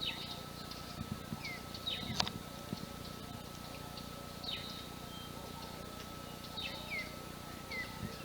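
Birds calling in the forest at dawn: one call, a quick falling whistle, repeats about every two seconds among other short chirps, over a steady thin high tone.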